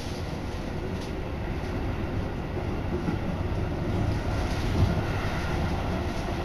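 Seibu Shinjuku Line commuter train running, heard from inside the carriage: a steady rumble of wheels on rails that grows gradually louder, with a brief louder knock about five seconds in.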